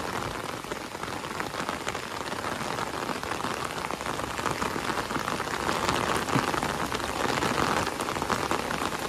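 Heavy rain falling, a dense, steady patter of drops, a little louder in the second half.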